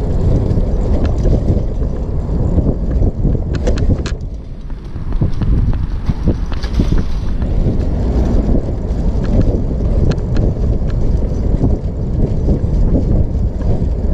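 Wind rumbling on the microphone of a trike being ridden along, with a few clicks about three and a half seconds in and a brief lull about four seconds in.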